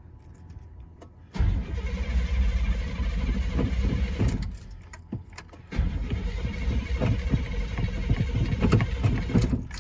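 Chevy pickup's starter cranking the engine in two attempts of about three to four seconds each, with a short pause between. The engine does not catch. The owner puts this down to a failing fuel pump or a weak battery after four months of sitting.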